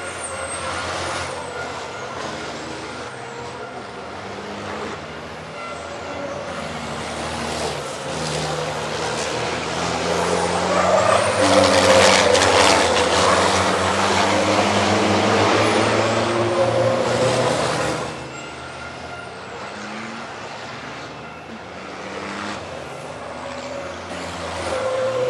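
Diesel engines of racing trucks running hard on the circuit, growing loud as trucks pass close about ten seconds in and dropping away suddenly a few seconds before the end. Short high whistles sweep up and down throughout.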